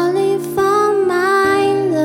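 Live acoustic pop music: a woman sings a held, sliding melody over plucked acoustic guitar.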